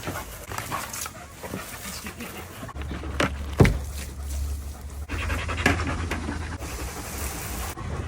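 Belgian Malinois panting, with a low steady hum coming in about three seconds in and one sharp knock shortly after.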